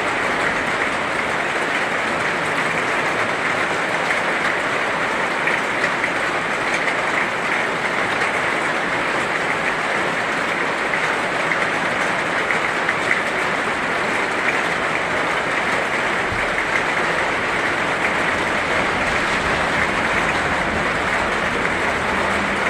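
Heavy rain falling steadily: a dense, even hiss with small sharp drop impacts scattered through it.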